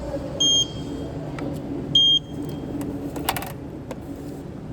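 Fresh-orange-juice vending machine working: a high electronic beep twice, about a second and a half apart, then mechanical clicks and a short clatter over a steady machine hum.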